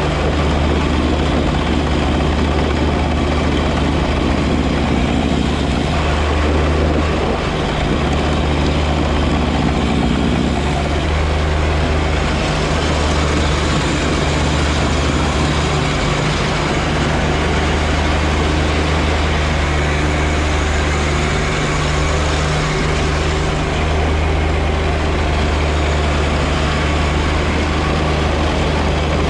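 John Deere 1025R compact tractor's three-cylinder diesel running steadily, with the whir and hiss of its 54-inch front snow blower working. The tone shifts slightly a few seconds in and again near the middle.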